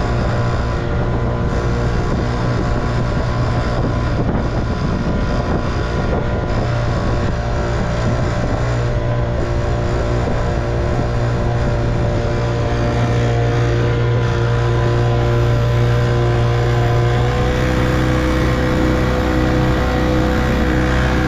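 1958 Evinrude 3 hp two-stroke outboard motor running steadily, pushing a small boat along. About seventeen seconds in its note changes slightly and gets a little louder.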